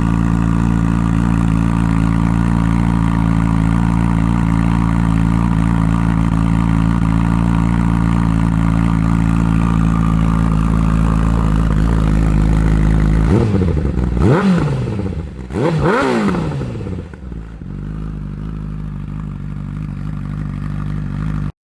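Honda CBR1000's inline-four engine idling steadily through a freshly fitted M4 aftermarket exhaust with its silencer still in, then revved twice, the pitch rising and falling back each time, before settling to a quieter idle.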